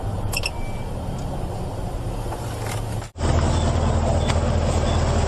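A vehicle engine running steadily with a low rumble. About three seconds in, the sound cuts off abruptly and picks up again louder.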